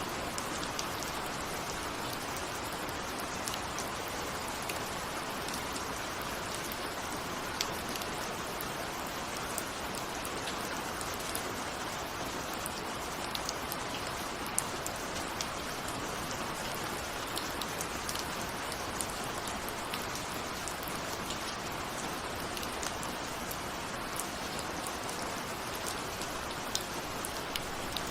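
Steady rain falling, with individual drops ticking sharply here and there against a window.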